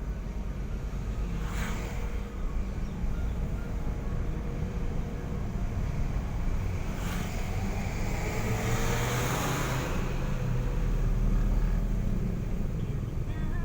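Car on the road: a steady low rumble of engine and tyres, with brief rushing swells as other vehicles pass, about a second and a half in, around seven seconds, and between eight and ten seconds.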